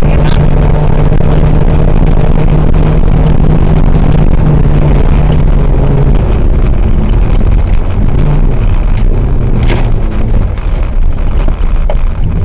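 Rally car engine running loud under load, heard from inside the cabin: it holds one steady pitch for the first few seconds, then drops lower and wavers as the speed changes, over constant road noise with a few sharp clicks near the end.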